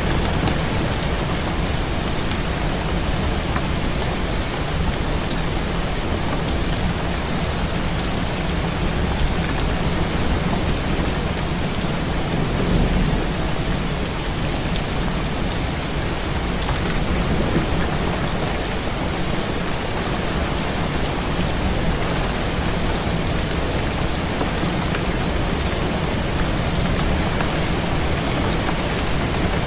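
Heavy rain pouring steadily against a window, with a low rumble underneath that swells slightly a couple of times.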